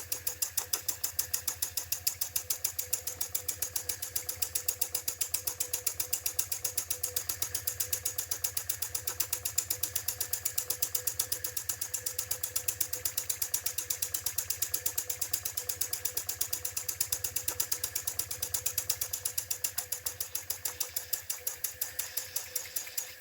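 IND-X electric model steam engine running steadily at speed, its slide-valve exhaust chuffing in a rapid, even beat and the small mechanism clattering. Leaking steam at the safety valve and regulator valve hisses underneath.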